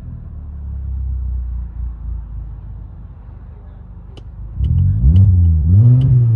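Hyundai Santa Fe Sport four-cylinder engine with its muffler deleted (resonator kept) idling with a low rumble, then given two quick throttle blips about four and a half and six seconds in, the pitch rising and falling each time. Heard from inside the cabin.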